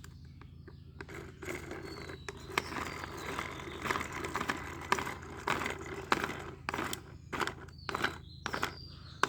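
A plastic toy car being handled on a hard surface: scraping with scattered light clicks and knocks, over a steady low hum.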